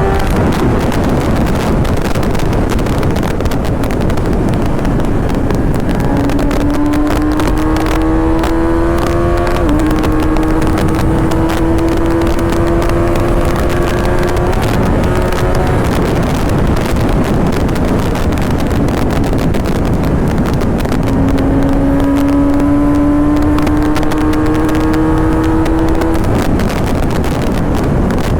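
1000cc inline-four superbike ridden at speed, heavy wind rushing over the microphone. The engine note rises steadily twice as the bike pulls through a gear, the second time about twenty seconds in.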